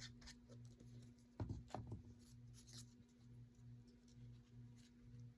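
Faint rustling and small clicks of paper and craft materials being handled, with a brief soft knock about one and a half seconds in, over a low steady hum.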